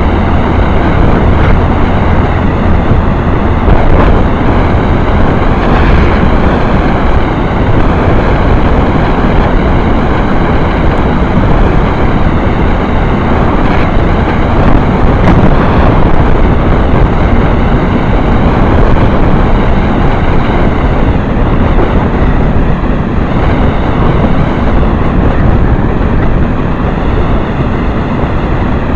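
Motorcycle riding at speed: engine running with a steady rush of wind on the microphone. A low hum is strong until about four seconds in, then eases off.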